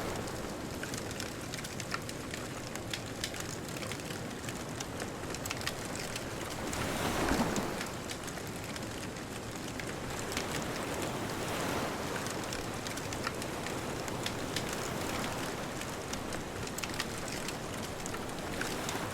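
Bonfire crackling with frequent sharp pops over the steady wash of distant ocean waves. A wave swells and breaks about seven seconds in, with softer swells later.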